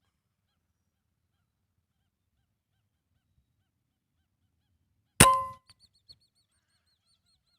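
A single sharp rifle shot about five seconds in, with a brief metallic ring, followed by a quick run of faint, high chirping whistles from lesser whistling ducks.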